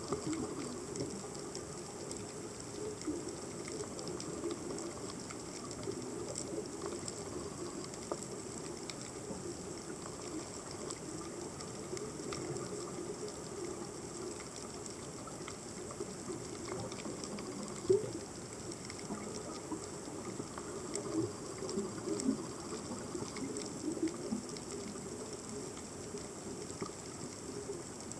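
Underwater reef ambience picked up by a submerged camera: a constant crackle of fine clicks over a low rush of moving water, with one louder click about two-thirds of the way through.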